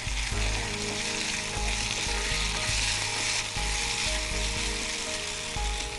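Crushed green peas stir-frying in hot oil in a small pan: a steady sizzle, with a spatula stirring through them.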